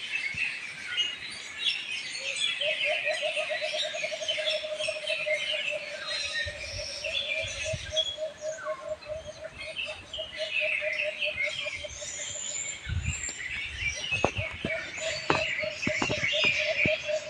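Many wild songbirds chirping and calling over one another, with short high chirps throughout. A lower, fast-pulsing trill starts a few seconds in, fades out about two-thirds of the way through and returns near the end. A few sharp clicks sound near the end.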